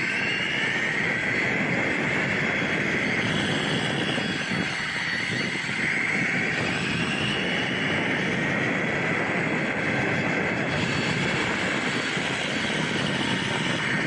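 Electric motor of a 1/4-scale Losi Promoto-MX RC motorcycle running under way. Its whine rises and falls in pitch with the throttle, over a steady rushing noise.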